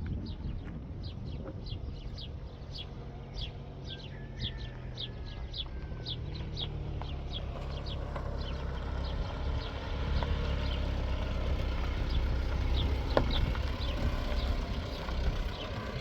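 A bird chirping over and over in short, high, falling notes, about two or three a second, pausing for a few seconds in the middle. A steady low rumble lies underneath.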